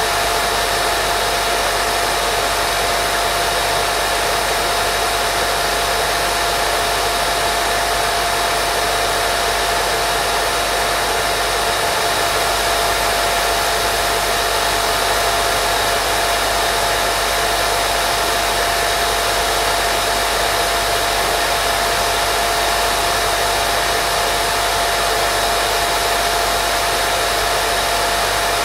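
Steady white noise, an even unbroken hiss with a steady mid-pitched tone running through it.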